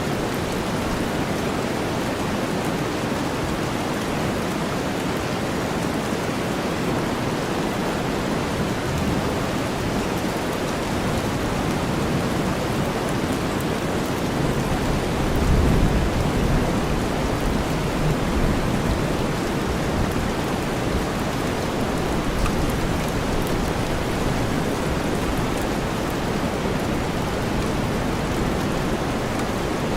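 Steady rain blended with deep white noise, a dense even hiss. A brief low rumble swells about halfway through.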